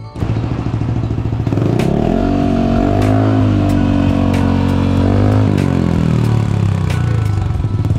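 Motorcycle engine through an aftermarket exhaust, revved up and held high for about three seconds, then dropping back to idle.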